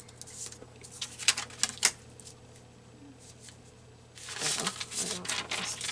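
Paper and craft materials being handled on a table: a few sharp clicks and taps, then a stretch of paper rustling near the end.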